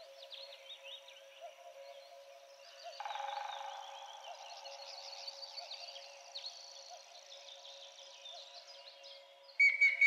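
Several wild songbirds chirping and twittering in quick, overlapping short notes over a faint steady tone. A louder bird call with a held whistled note starts near the end.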